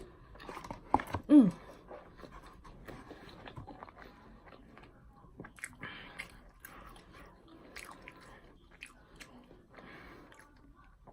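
Close-up chewing and biting of food, with many small wet mouth clicks and smacks. About a second in, a short falling hum of enjoyment.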